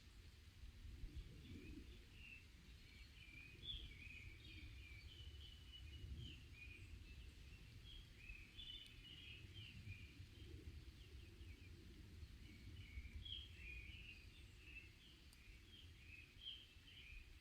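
Small forest birds chirping and warbling faintly in a dense chorus of short, quick, overlapping calls, with a low steady rumble of background noise underneath.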